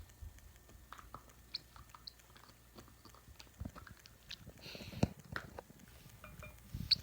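A pet cockatoo's beak nibbling and chewing: irregular small clicks and crunches, with a louder click about five seconds in.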